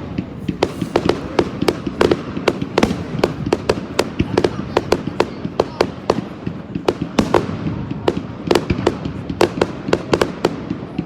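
Fireworks display: an irregular barrage of sharp bangs and crackles, several a second, over a steady low rumble.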